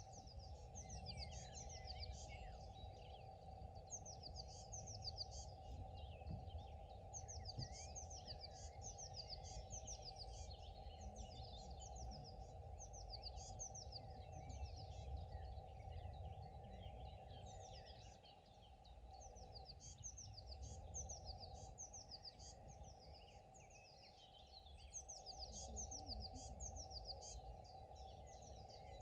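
Songbirds singing in repeated phrases of quick high chirps, over a steady low background noise.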